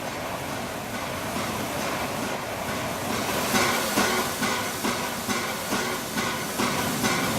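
Train approaching and getting steadily louder, with a regular beat of about two strokes a second setting in about halfway through.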